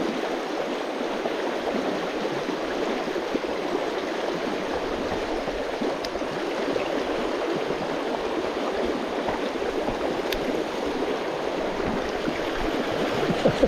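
Water of a small mountain stream running steadily, a constant rushing noise.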